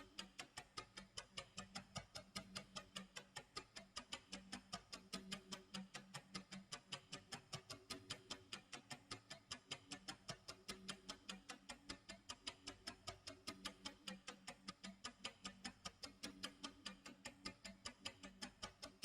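Clock tick-tock sound effect, a steady, fast run of faint, sharp ticks at several per second, with faint steady low tones beneath.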